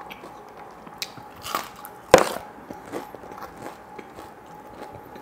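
Close-up eating sounds of a crisp battered onion ring being bitten and chewed: one loud crunch about two seconds in, with smaller crunches and wet mouth sounds around it.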